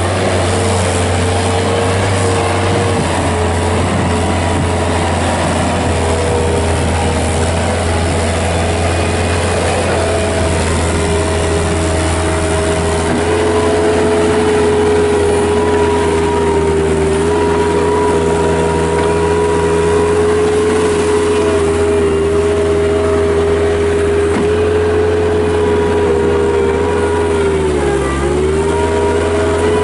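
Kubota diesel engine of a 1995 Bobcat 7753 skid steer loader running steadily at working speed. Near the end the engine speed briefly dips and then recovers.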